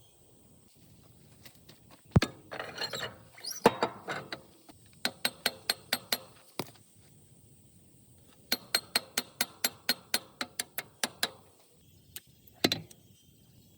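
Metal-on-metal clinks and knocks from hand tools on the axle parts: a couple of sharp knocks, then two runs of quick, even taps about five a second, and a last knock near the end.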